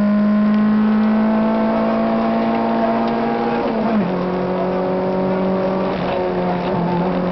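Citroën AX GTi rally car's four-cylinder engine pulling hard at high revs, heard from inside the cockpit, its pitch creeping up and then dropping sharply about four seconds in before running steady again.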